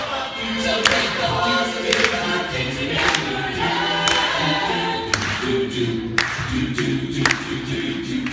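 A choir singing without accompaniment, several voices together, with a sharp beat or clap about once a second.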